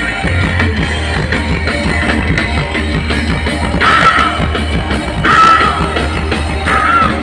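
A live rock band playing, with electric guitar, bass and drums. In the second half a singer holds three high notes, each lasting about half a second.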